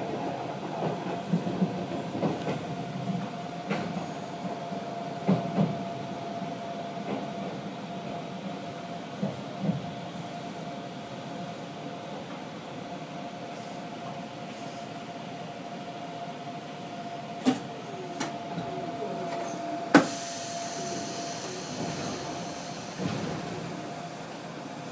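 Ex-Keio Inokashira Line 3000-series electric train slowing to a stop, its wheels knocking over rail joints in the first few seconds before the rumble dies away, then standing with a steady hum. About twenty seconds in, a loud sharp clunk followed by a hiss of air.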